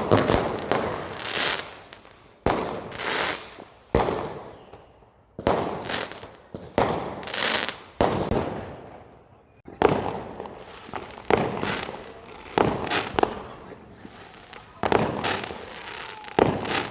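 Fireworks bursting one after another: sharp bangs about every one to two seconds, each trailing off in a crackling hiss.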